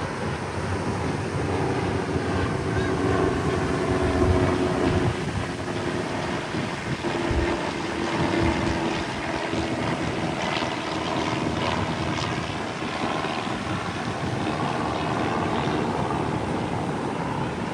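Propeller airplane flying over, a steady engine drone whose pitch drifts slowly.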